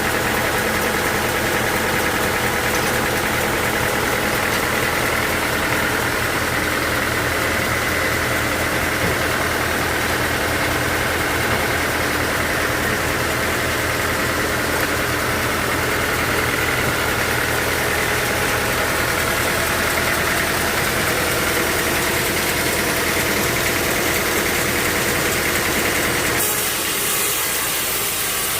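A machine's engine running steadily at an even speed, with the sound changing abruptly near the end.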